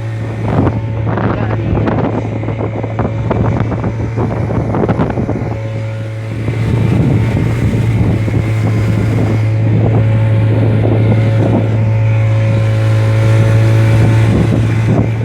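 Motorboat engine running at a steady speed, a constant low hum, with wind buffeting the microphone.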